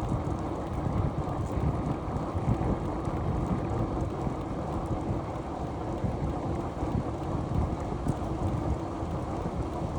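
Wind and road noise on a camera riding along on a moving bicycle: a steady low rumble that flutters unevenly, with no distinct events.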